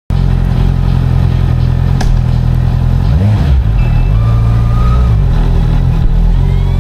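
Honda CB650R's inline-four engine running under way, its note dipping and climbing back about three seconds in and rising again a second later. There is a single sharp click about two seconds in.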